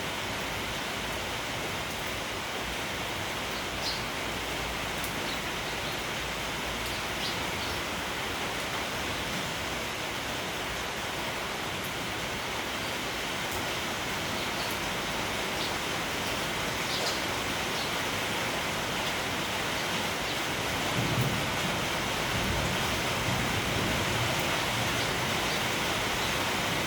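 Steady rain falling, an even hiss. Near the end a low gusty rumble builds beneath it.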